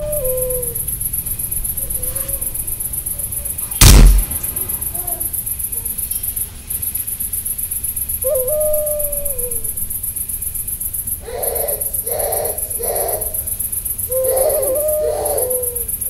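Owl hooting several times over a steady high insect drone, with one very loud gunshot about four seconds in.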